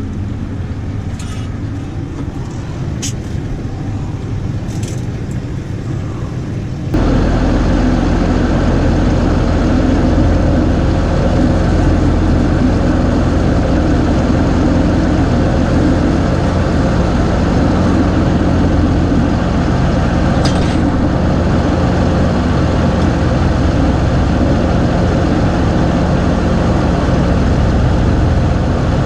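Tractor engine running steadily at idle, with a few light metallic clicks in the first few seconds. About seven seconds in, the engine sound jumps abruptly louder and stays steady from then on.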